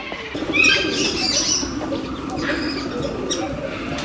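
White birds calling: a low, wavering cooing runs throughout, with sharper, higher chirps over it, loudest about a second in.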